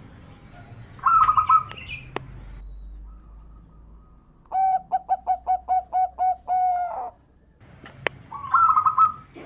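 Zebra dove (perkutut) calling. A short rolling, trilled coo comes about a second in. It is followed by a run of about nine quick, evenly spaced coo notes, and another trilled phrase near the end. Two sharp clicks are heard, one shortly after the first phrase and one just before the last.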